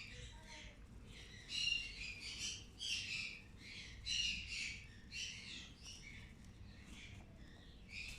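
Green-cheeked conure chicks calling: a run of raspy, high squawks in short bouts, a fraction of a second to about a second apart.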